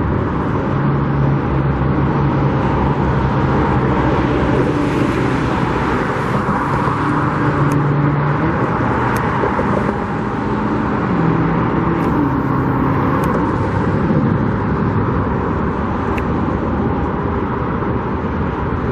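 Steady road traffic with the engines of passing vehicles rising and falling in pitch.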